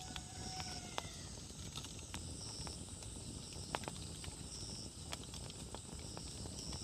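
Wood campfire burning, with irregular crackles and sharp pops over a low rush of flame.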